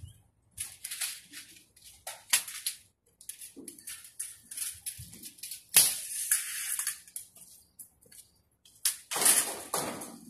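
Thin corrugated metal shed sheets being handled, giving irregular rattling and scraping clatter in short bursts, with a sharp metal clank about six seconds in.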